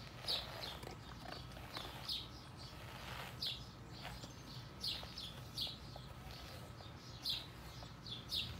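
Small birds chirping: short, high chirps, one or two a second, over a low steady hum.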